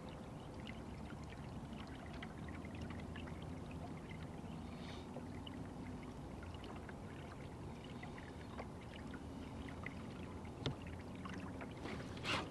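Water lapping and splashing against a kayak's hull, with a faint low hum underneath and a few sharper knocks near the end.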